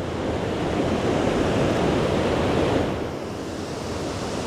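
Steady rushing noise of moving creek water and rain, with wind buffeting the microphone. It eases slightly about three seconds in.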